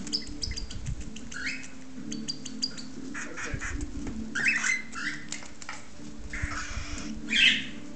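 Cockatiel chick making rapid clicking and short, raspy begging calls as its father feeds it, with a louder call near the end.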